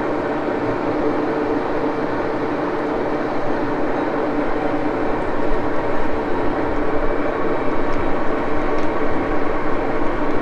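Axelson engine lathe running steadily under power, its geared headstock giving a constant hum with a fixed whine, a little more uneven in loudness in the second half.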